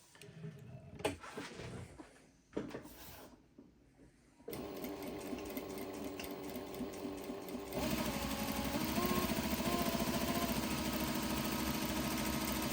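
Juki DDL-8700 industrial lockstitch sewing machine. A few handling clicks are followed by the machine running quietly, and about eight seconds in it speeds up to fast, steady stitching.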